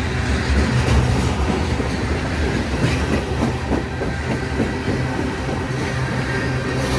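Train moving on the tracks: a steady low rumble, with a run of wheel clicks over rail joints in the middle.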